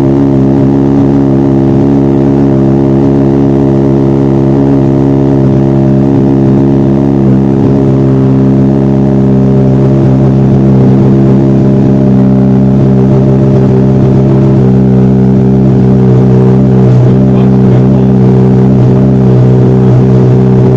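Sportbike engine idling steadily through an aftermarket MGP exhaust, a loud, even running note that holds at one speed throughout.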